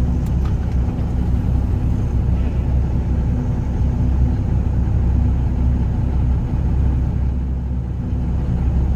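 Peterbilt 359 semi truck's diesel engine idling with a steady low rumble.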